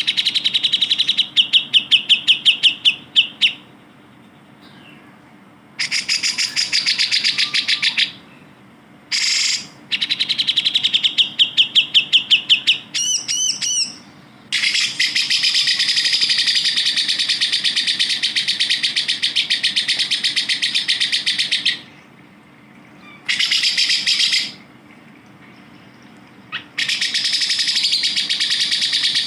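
Grey-cheeked bulbul (cucak jenggot) singing in bursts of fast repeated chirping notes separated by short pauses. About halfway in comes one long unbroken chattering phrase lasting around seven seconds.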